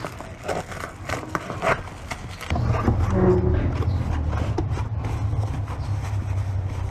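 Light knocks and clicks of packaging being handled. About two and a half seconds in, a steady low rumble starts and continues underneath.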